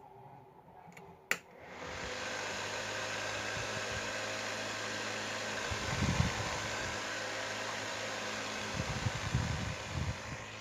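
Small homemade table fan switched on with a click, then running steadily with an even whir, with a few low bumps of air buffeting the microphone.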